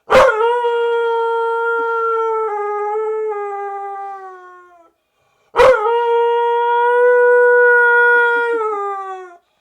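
Husky howling: two long howls, each held at a steady pitch and sagging slightly at the end, the second starting about halfway through.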